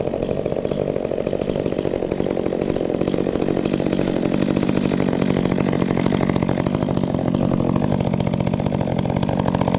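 Chainsaw running steadily under load, cutting into the trunk of a dead sugar pine; it gets a little louder about three seconds in.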